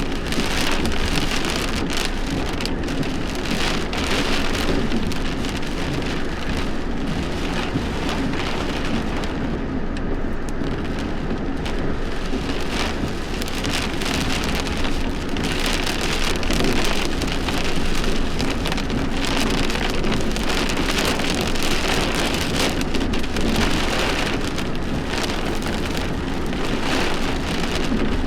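Heavy thunderstorm rain falling steadily, with a dense spatter of individual drops striking a surface.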